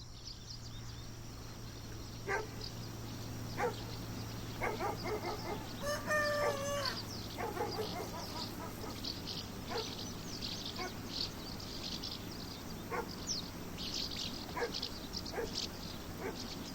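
Birdsong and farmyard fowl: small birds chirp continuously, with scattered lower calls from the fowl and one short, wavering call about six seconds in, over a low steady hum.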